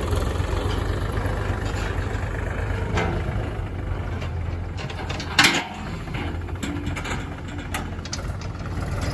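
Tractor engine running steadily with a low, pulsing rumble. A single sharp knock sounds about halfway through.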